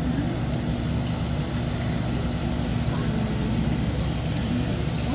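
Overhead exhaust hood of a hibachi griddle running with a steady low drone and a held hum, over a faint even hiss from the hot griddle.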